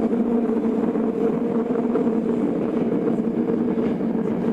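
Tokyo Metro 02 series subway car with IGBT inverter running between stations, heard from inside the car: a steady rumble of wheels and running gear with an even drone held at two pitches.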